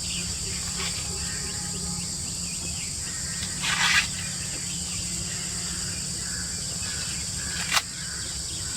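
Steady high-pitched chorus of forest insects, with a few faint bird chirps. About four seconds in comes a brief rustle, and a sharp click sounds near the end.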